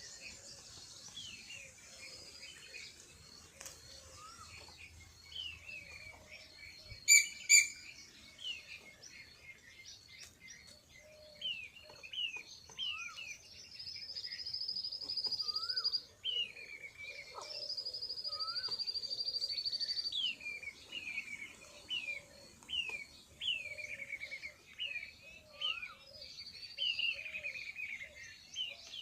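Small birds chirping: many short, quick falling chirps, with longer buzzy trills partway through. Two sharp, loud clicks about seven seconds in.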